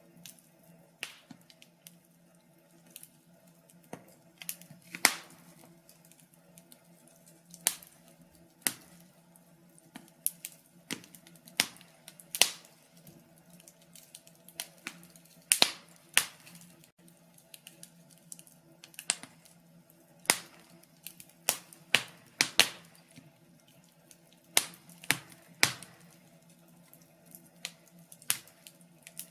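Fire in a fireplace crackling: irregular sharp pops and snaps, a few much louder than the rest, over a faint steady low hum.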